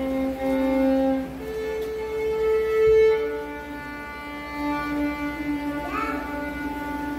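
Two violins playing a slow melody of long held notes.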